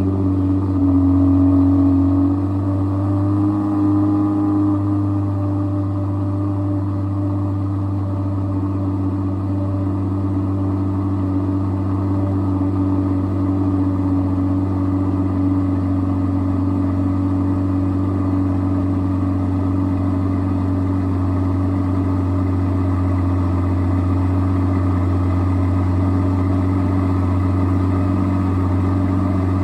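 2023 Aston Martin V12 Vantage's twin-turbo 5.2-litre V12 at fast idle just after a cold start. The pitch shifts a little over the first few seconds, then the engine runs steady.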